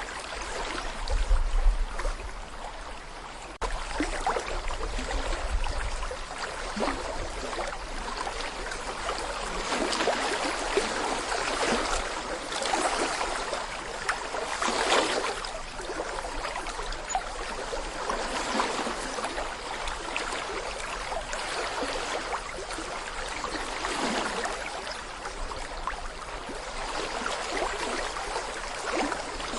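Small brook of clear water flowing over stones, babbling and gurgling with constantly shifting splashes. Brief low rumbles come in about a second in and again around four to six seconds in.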